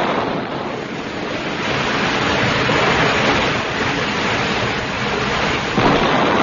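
Radio sound effect of rushing floodwater: a loud, steady wash of surging water.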